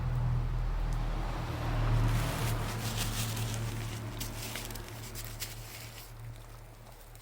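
Campfire crackling with scattered sharp pops, mostly in the middle, over a low steady rumble; everything fades toward the end.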